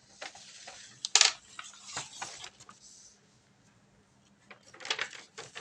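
Rustling and clicking handling noises in two spells, with a sharp click about a second in.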